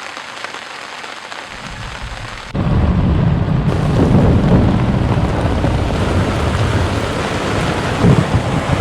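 Strong wind buffeting the microphone: a quieter hiss at first, then a sudden loud, low rumbling rush about two and a half seconds in that keeps on steadily.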